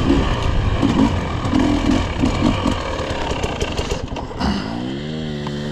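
Dirt bike engine revving up and down as it rides a dirt trail, then climbing in pitch about four and a half seconds in and holding steady, with scattered clattering clicks.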